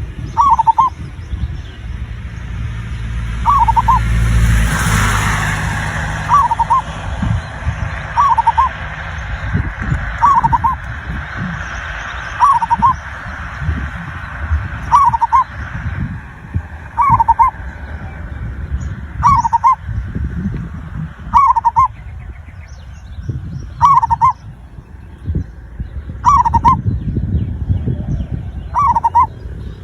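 Zebra dove (perkutut) cooing: one short call repeated about every two seconds, over a low rumble. A louder swell of noise passes about four to six seconds in.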